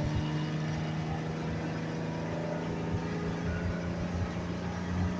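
Six-cylinder engine running while the vehicle is driven, a steady engine note that climbs slightly near the end. It runs without a misfire after new spark plugs were fitted, one of the old ones heavily carboned.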